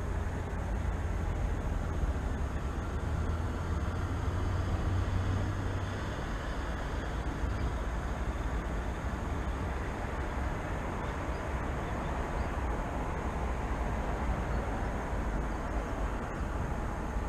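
Steady rumble of city traffic, with no distinct event. The deep low rumble is heaviest for the first six seconds, then eases slightly.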